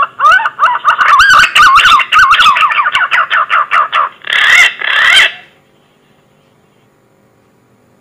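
Green pigeon (punai) call used as a hunting lure: a quick run of wavering, whistled notes, then two rougher notes about four and five seconds in, after which it stops.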